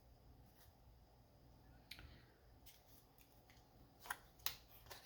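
Faint clicks and flicks of oracle cards being handled and drawn from the deck, with a couple of sharper snaps about four seconds in.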